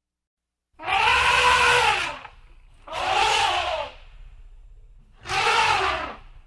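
An animal calling three times, each call about a second long and loud, its pitch arching up and then falling.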